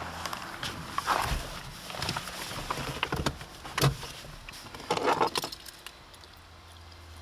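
A run of clicks, knocks and rustling, the loudest about one, four and five seconds in, over a steady low hum.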